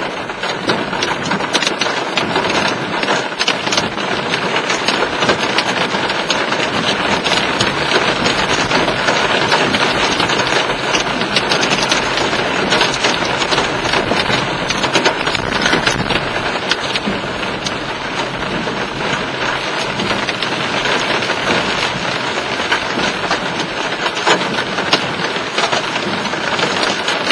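Hail hitting a stopped vehicle: a dense, steady clatter of many small stones striking the body and glass, at the front edge of a hail shaft.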